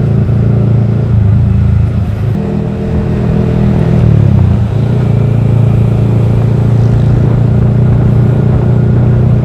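Yamaha R15 V3's 155 cc single-cylinder engine running through a Daytona Evolution aftermarket exhaust while riding, a deep steady note that dips and changes pitch briefly about two seconds in.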